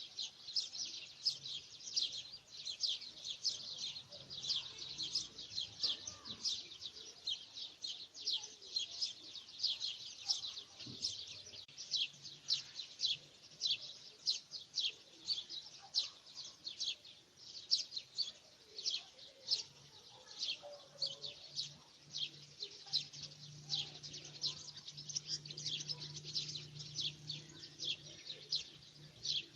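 Birds chirping without pause: a dense run of short, high chirps, several a second.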